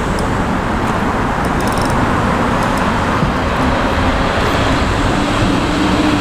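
Steady road-traffic rumble from a busy overpass overhead, with one vehicle's tone rising slightly in pitch in the second half.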